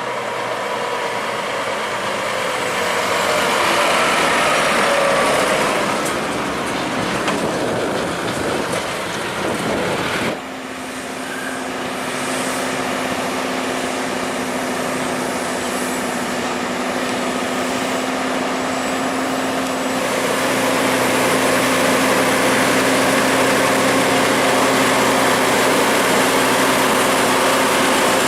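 Heavy truck's engine running steadily with road noise. The sound drops and changes abruptly about ten seconds in, then settles into a steady engine drone.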